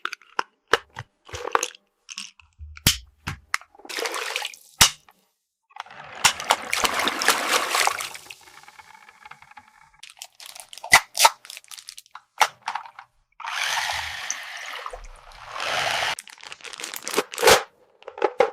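Miniature plastic toy pieces being handled: many light, sharp clicks and taps, with two longer noisy stretches about six and fourteen seconds in.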